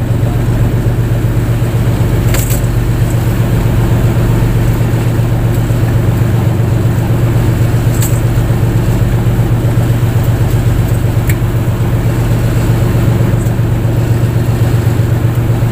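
Fishing boat's engine running steadily with a constant low hum, heard on board. A couple of brief sharp clicks sound over it.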